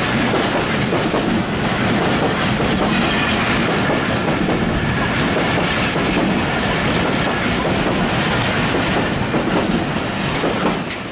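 Broad-gauge passenger coaches rolling past close by, their wheels clattering over the rail joints in a steady run of sharp clicks over a loud rumble. The noise drops near the end as the train draws away.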